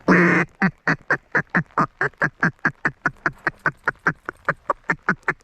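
Mallard duck call blown in a long hail: one drawn-out loud quack, then a run of about twenty short, even quacks at roughly four a second.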